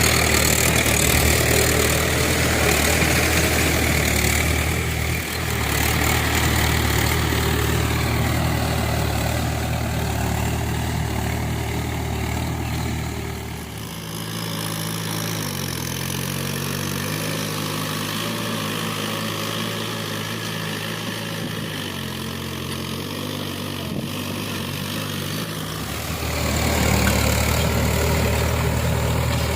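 Tractor engine running steadily while ploughing wet paddy mud. Partway through, the engine note drops lower and lighter for about twelve seconds, then comes back up near the end.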